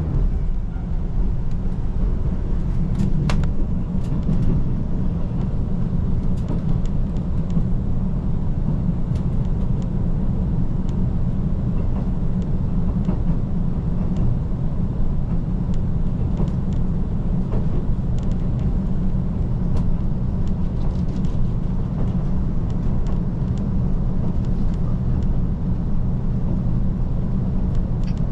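KiHa 185 series diesel express railcar running at speed: a steady low rumble of its diesel engine and wheels on the rails, with scattered faint clicks and rattles.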